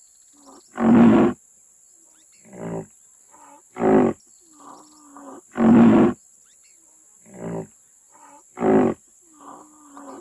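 Rhinoceros calls: a series of short, loud, rough calls about every two to three seconds, with quieter grunts in between.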